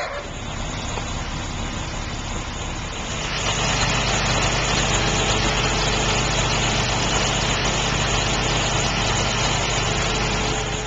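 An engine running steadily with a low hum, growing louder about three and a half seconds in.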